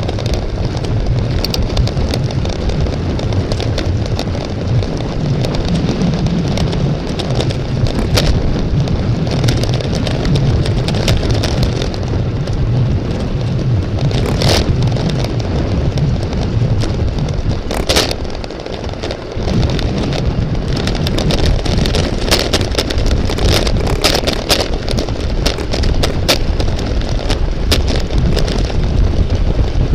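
Wind buffeting the microphone of a camera riding along on a bicycle at race speed: a loud low rumble with scattered sharp clicks and rattles. It dips briefly about eighteen seconds in.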